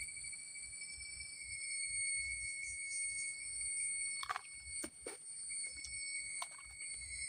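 Chorus of tropical forest insects, several steady high-pitched trills held at once without a break, with a few sharp clicks and knocks a little past the middle.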